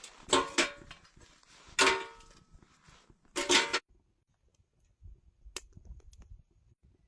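A handful of sharp knocks, each with a short ringing tail: two close together near the start, one about two seconds in, and a quick pair about three and a half seconds in, then a few faint ticks.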